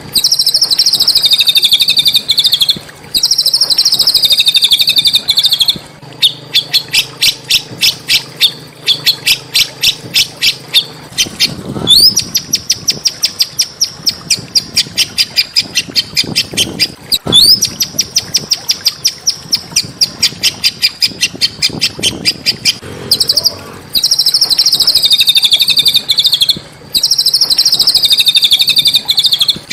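Small songbird singing loudly and continuously. It gives long, high, slightly falling trills, then long runs of rapid repeated chirps at about ten a second. Each chirp run opens with a quick upward sweep. Near the end it returns to the long high trills.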